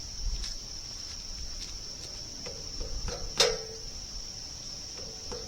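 Sharp metallic clang with a short ringing tail about three and a half seconds in, preceded by a few lighter knocks and low thuds: a kick against the steel sawmill track to push it back into line. Insects drone steadily at a high pitch throughout.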